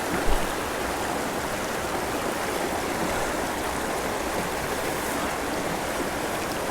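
Canyon creek water rushing and splashing in a steady, even wash.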